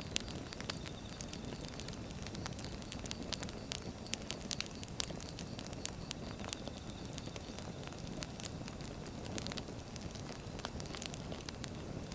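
Firewood burning in a fire: a steady low rush of flame with sharp, irregular crackles and pops from the logs.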